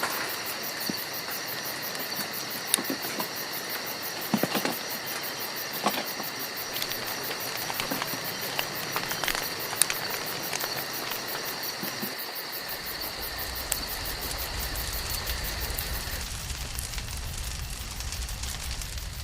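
Wood campfire crackling with scattered sharp pops, over a steady high chirring of insects that stops near the end. A low rumble comes in about two-thirds of the way through.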